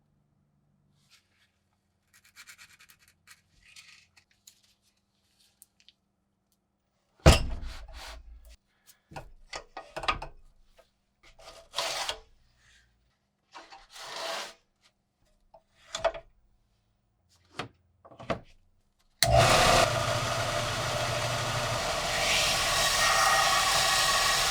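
Hand work on a rusty metal tool: a sharp knock, then a run of short rubbing and scraping strokes, as of sanding or filing, separated by pauses. Near the end a loud, steady whirring hiss of a power tool starts suddenly and keeps going.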